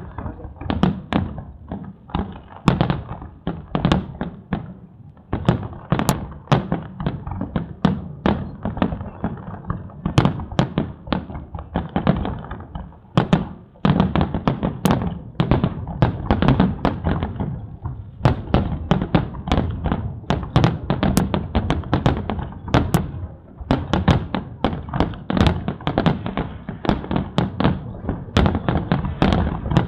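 Aerial fireworks shells bursting in quick succession, a continuous run of booms and cracks several a second, with a brief lull about halfway through.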